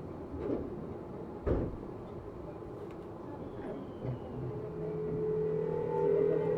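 Tokyu 7700 series electric train heard from inside a motor car: a few knocks and a clunk, then about four and a half seconds in the traction inverter and motors start to whine and the pitch rises steadily as the train begins to accelerate.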